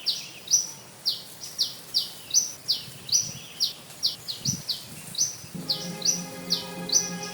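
White-breasted woodswallow calling: short, sharply falling chirps repeated about twice a second. Background music comes in about two thirds of the way through.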